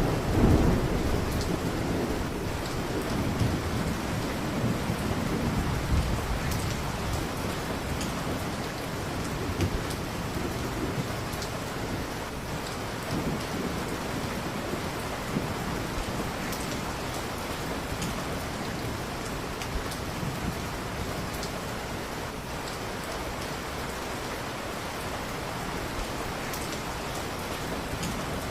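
Steady heavy rain, with a low rumble of thunder over the first several seconds that dies away, and scattered sharp ticks through the rain.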